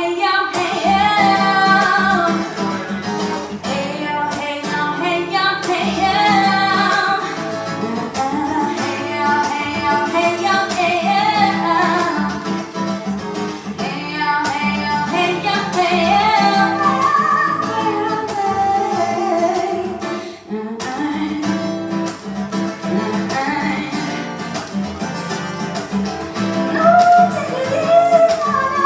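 A woman singing to acoustic guitar.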